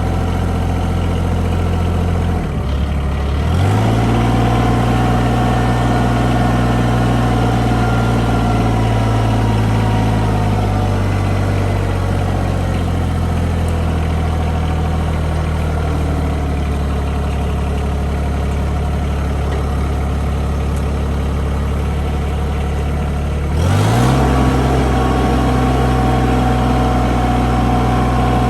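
Bad Boy tractor engine running. Its speed rises about three seconds in, eases back down slowly a few seconds later, then rises again near the end.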